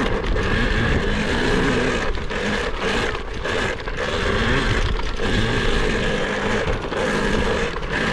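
Dirt bike being ridden: a steady motor whine that drops out briefly several times as the throttle comes off, over a constant rumble of wind and motion on the microphone.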